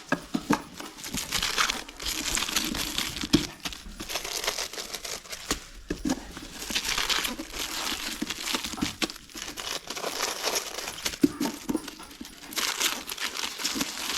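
Paper rustling and crinkling in irregular handfuls, with small taps and clicks, as kuruvi vedi firecrackers are packed by hand into paper packets of five and bundled.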